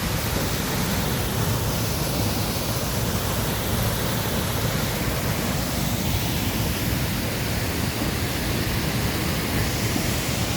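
Waterfall: a steady, unbroken rush of falling water, strongest in the low end.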